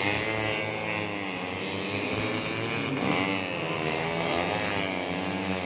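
Racing 150cc four-stroke underbone motorcycles running at high revs, several engines overlapping, their pitch rising and falling as they accelerate and pass.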